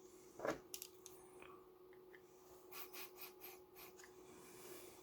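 Faint handling noises on a small object: a soft knock about half a second in, a couple of light clicks, then about six short scratching or rubbing strokes near the middle, over a faint steady hum.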